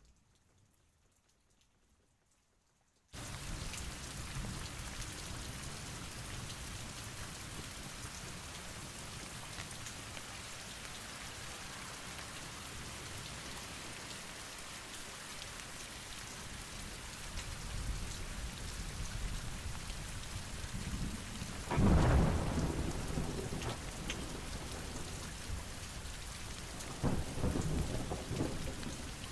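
Heavy rain pouring steadily, cutting in suddenly after a few seconds of near silence. A loud thunderclap comes about two-thirds of the way through, and more thunder rumbles near the end.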